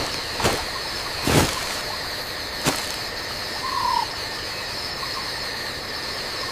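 Rainforest ambience: a steady, high insect drone, four short thumps in the first three seconds, and one short chirping call about four seconds in.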